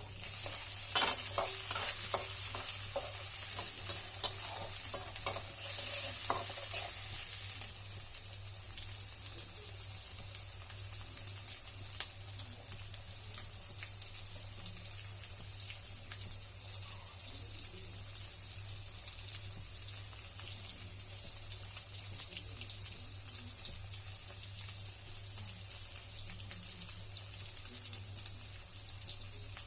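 Food frying and sizzling in a hot pan. For the first several seconds a spatula stirs and scrapes against the pan with ringing metallic knocks, then only the steady sizzle goes on.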